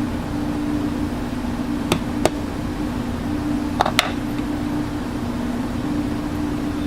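Golf cart's V-twin engine running at a steady speed, a constant drone, with four sharp clicks about two and four seconds in.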